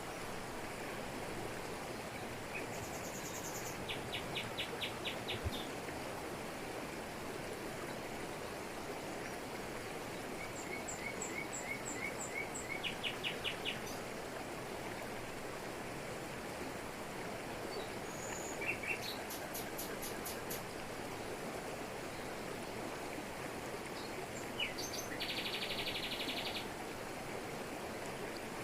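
Steady rush of a jungle waterfall falling onto rocks, with birds calling over it several times in short, rapid trills and strings of quick chirps.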